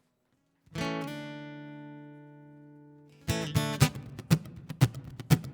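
Acoustic guitar: a single chord struck and left to ring out slowly, then about three seconds in a rhythmic strummed pattern starts, with sharp percussive strokes roughly twice a second, opening the next song.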